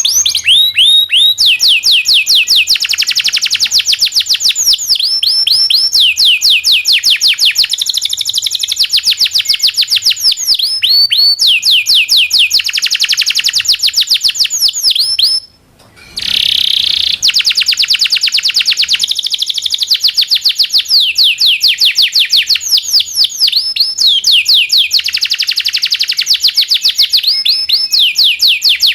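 Domestic canary singing in long rolling trills: rapid runs of repeated, downward-sweeping high notes, one trill flowing into the next, with a brief break about halfway through.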